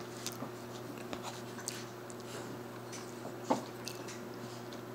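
A person eating: quiet chewing and a few light utensil clicks, the loudest about three and a half seconds in, over a steady low hum.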